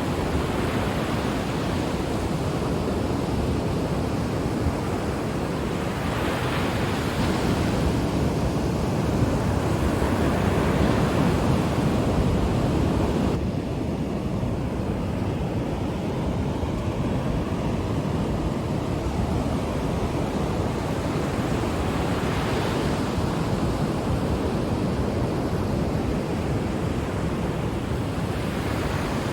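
Ocean surf washing on a shore: a steady rushing noise that swells as each wave breaks, every several seconds. The brighter hiss drops off suddenly about halfway through.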